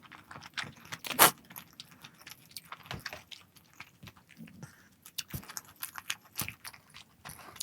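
Eating sounds at a table: a run of small, irregular clicks, taps and light crunches, with one louder knock about a second in.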